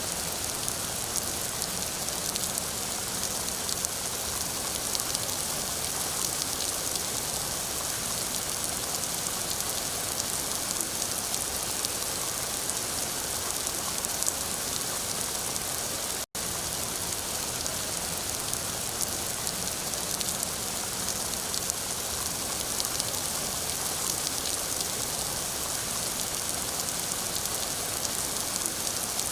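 Steady rain falling, an even hiss with small flickers of louder drops, broken once about sixteen seconds in by a split-second gap of silence.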